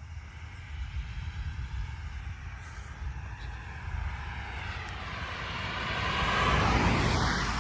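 An aircraft flying over, its engine noise building to a peak near the end and then starting to fade, over a low rumble.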